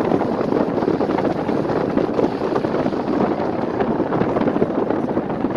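Steady wind buffeting the microphone over the noise of a vehicle driving along.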